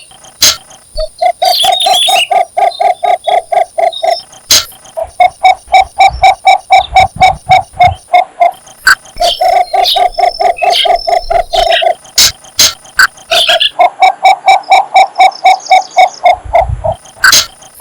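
Cinnamon bittern calling for a mate, giving its advertising call: runs of low, evenly spaced notes, about six a second, in four bouts of a few seconds each with short pauses between.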